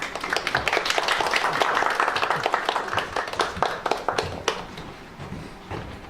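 Audience applause, strongest in the first few seconds and thinning out to a few scattered claps near the end.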